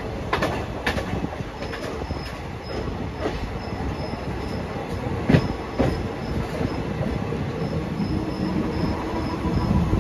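Passenger train running along the line: a steady rumble of wheels on rail with scattered sharp clacks, the loudest about five and a half seconds in. A faint high-pitched squeal comes and goes over the rumble.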